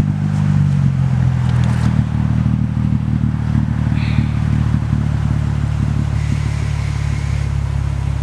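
Car engine running close by. Its pitch shifts in the first second or so, then it settles into a steady idle.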